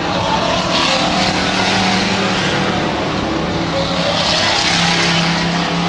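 Stock trucks racing on a dirt oval track: several engines running loud and steady, their notes shifting in pitch as the trucks go by.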